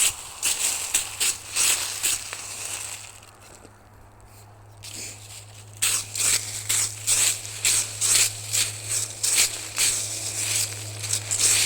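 Footsteps crunching on the forest floor, about two steps a second, pausing for a second or two near the middle before walking on.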